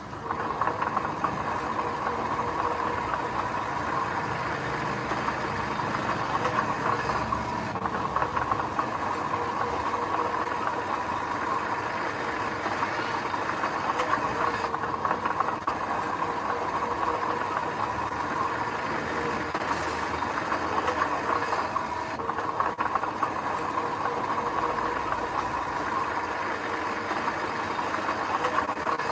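Diesel engine of construction machinery running steadily, with a constant drone and no clear revving or pauses.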